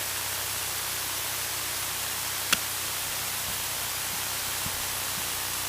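Steady static hiss of a Cessna 152's cockpit audio feed, with a faint low hum beneath and one short click about two and a half seconds in.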